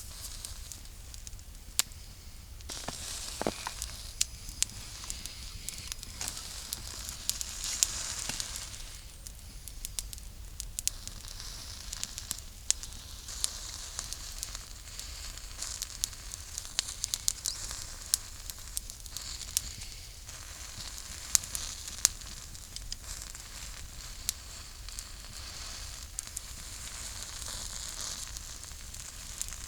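Food sizzling over a crackling campfire: a steady sizzle with frequent sharp pops and crackles.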